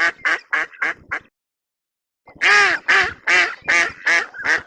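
An animal calling in a rapid series of short calls: five quick ones, a pause of about a second, then about six louder ones.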